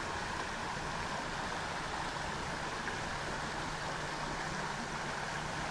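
Small creek flowing steadily, water rippling and splashing over a shallow break, with a faint low hum joining about halfway through.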